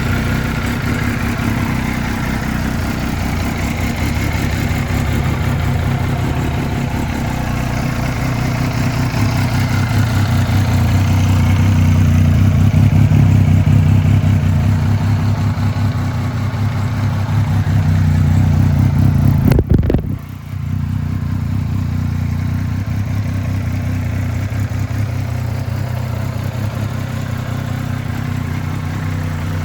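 Benelli TNT 1130's three-cylinder engine running steadily, swelling a little in the middle, with a brief sudden break about two-thirds of the way through.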